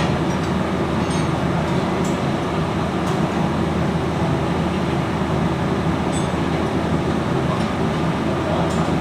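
Steady, loud machinery hum and rumble, with a few faint metallic clinks.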